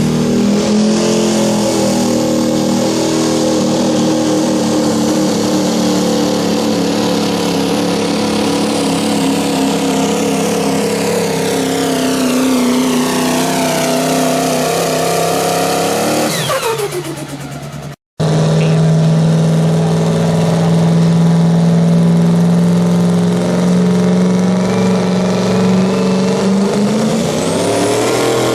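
Diesel pickup trucks pulling a sled: one engine runs loud at high revs, its pitch sinking slowly as it pulls under load, then dropping steeply about 16 seconds in as the throttle comes off. After an abrupt cut, another diesel runs loud and steady at high revs, its pitch rising near the end.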